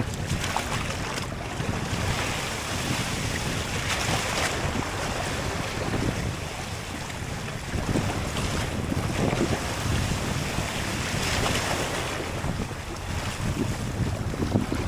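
Wind buffeting the microphone over the wash of sea waves, rising and falling in gusts every few seconds.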